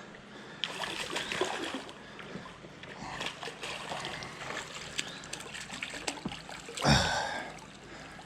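Creek water trickling and splashing as a hooked fish is fought and brought in, with a louder splash about seven seconds in.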